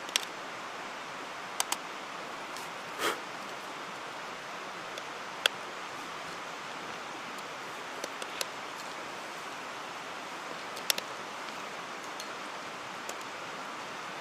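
Steady rushing of a mountain stream, with a few scattered sharp clicks and knocks and a softer thump about three seconds in.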